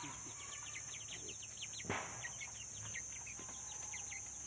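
Birds chirping rapidly, many short high falling notes, over a steady high hiss; a single sharp knock about two seconds in.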